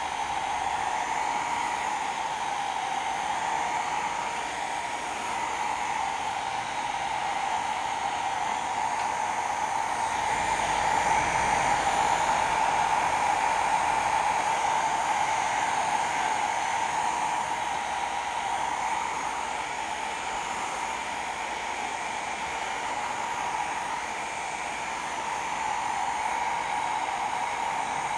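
Hot air rework gun blowing steadily, a hair-dryer-like rush that swells a little louder for a few seconds around the middle.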